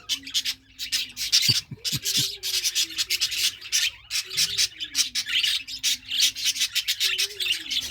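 A flock of budgerigars chattering: a dense, continuous run of fast scratchy chirps and warbles. A low wavering tone that falls in pitch recurs every couple of seconds underneath.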